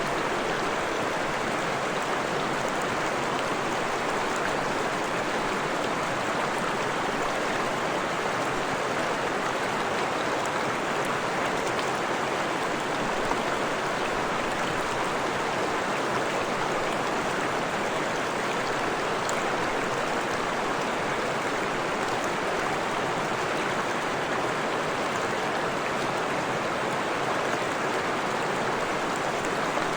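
Freshwater forest stream flowing, a steady, unchanging rush of water.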